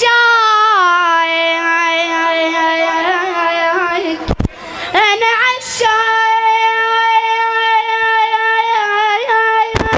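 A boy singing long, drawn-out high notes without words, the pitch gliding and wavering slowly. There is a brief break about four seconds in, then one long steady held note.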